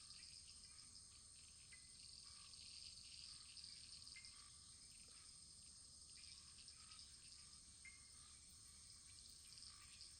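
Wood fire burning in a fireplace: a faint steady hiss with frequent small crackles and pops.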